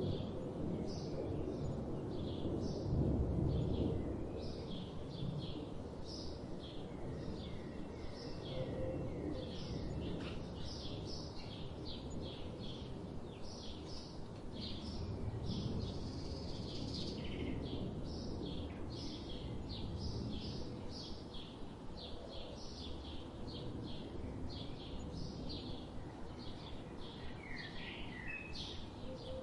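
Songbirds singing continuously in quick, short chirping notes over a steady low rush of flowing river water, which swells briefly a few seconds in.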